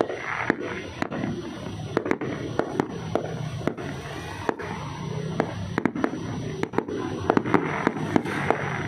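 Fireworks going off: a rapid, irregular series of sharp bangs and cracks, several a second, over a steady background din.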